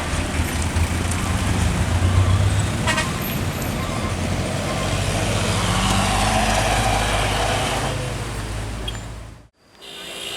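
Heavy diesel vehicle's engine running loud and close as it passes, its pitch climbing a little around the middle, with a short horn toot about three seconds in. The engine sound fades near the end and then cuts off suddenly.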